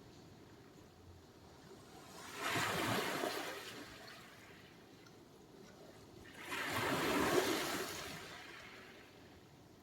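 Sea surf: two waves break and wash in, the first about two seconds in and the second about six and a half seconds in, each a sudden rush that slowly fades into a low steady hiss.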